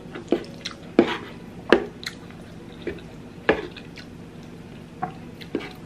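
Close-up wet mouth sounds of eating sauced spaghetti: a string of short, separate squishy smacks and clicks, about eight of them, spaced irregularly.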